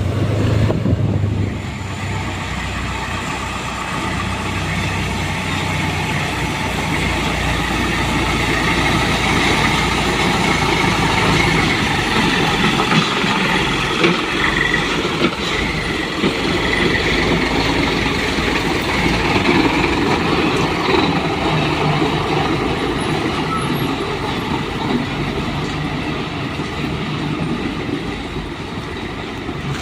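Dump truck unloading a load of sand: the engine hums strongly at first, then a steady dense rushing noise with fine crackles takes over as the sand pours out of the tipped bed.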